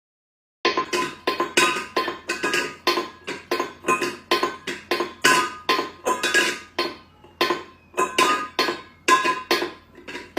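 Rapid, uneven series of sharp knocks on a hard, resonant object, each strike ringing briefly with a pitched tone, about two to three strikes a second, starting suddenly about a second in.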